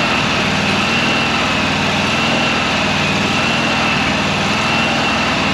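Toro Z587L zero-turn mower engine idling steadily, warming up toward operating temperature, with a steady high whine above it.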